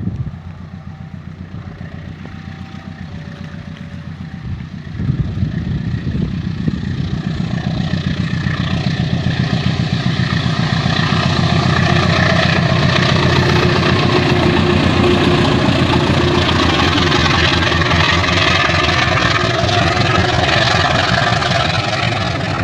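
Diesel locomotive engine running with a fast, even throb. It jumps louder about five seconds in, keeps building, and holds at full loudness through the second half.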